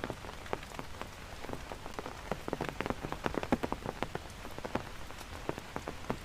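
Heavy rain falling, a steady hiss with many close drops tapping irregularly.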